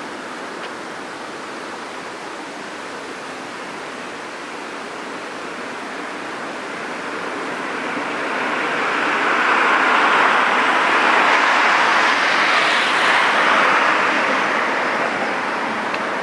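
Rushing noise of a passing vehicle, steady at first, swelling to a peak about ten seconds in and then easing off.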